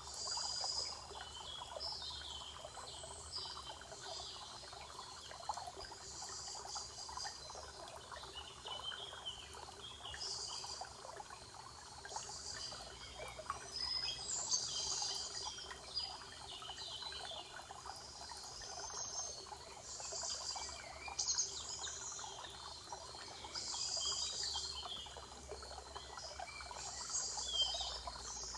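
Songbirds singing in a spring forest, short varied high-pitched phrases repeating every second or two over a steady background hiss.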